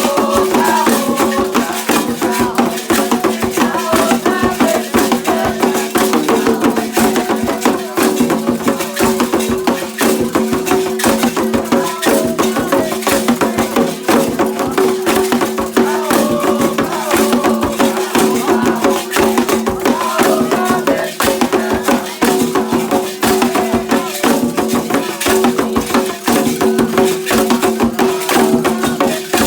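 Candomblé ritual music: shaken rattles and percussion strokes, fast and dense without a break, over a steady low tone, with faint voices singing.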